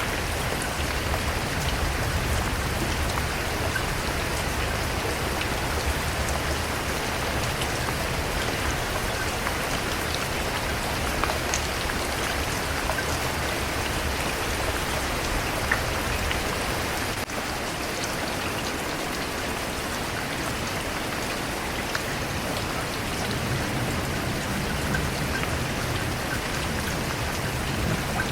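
Steady rain falling: an even hiss with scattered sharper taps of single drops, dipping briefly in level a little over halfway through.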